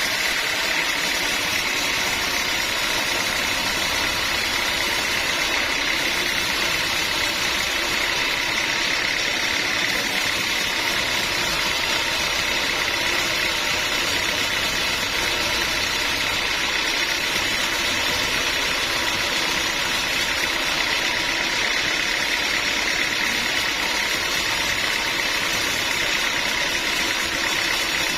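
Sawmill machinery running with a steady, unbroken mechanical drone and a constant high whine.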